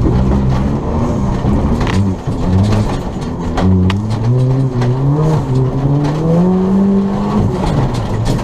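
Ford Fiesta ST rally car's engine heard from inside the cabin under hard driving: the note dips briefly, then climbs steadily in pitch as the car accelerates, and falls away near the end as the driver lifts. A few sharp knocks sound over it.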